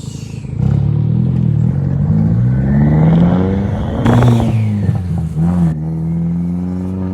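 Turbocharged VW 1.8T inline-four with a big turbo, pulling hard under acceleration. The engine pitch climbs for about three seconds, then drops with a brief rush of air at the gear change, and the engine runs steadier afterwards.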